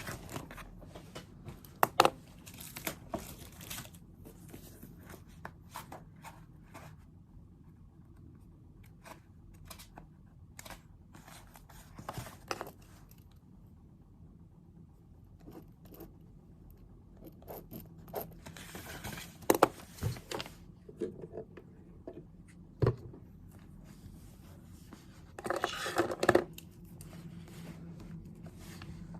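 Desk sounds of someone studying: scattered light taps and clicks with a few short bursts of paper rustling, the loudest about two-thirds of the way through and again near the end.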